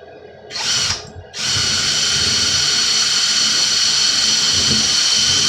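Power drill boring a mounting hole through the wall into a wood stud: a brief blip of the motor about half a second in, then from about a second and a half it runs steadily at full speed.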